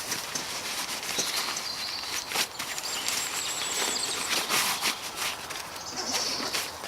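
Close rustling and crackling in dry woodland leaf litter, with small birds singing in the background, including a high trill in the middle.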